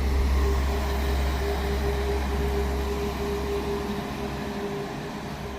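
Class 197 diesel multiple unit standing with its engines running: a steady low rumble with a steady hum above it, easing slightly toward the end.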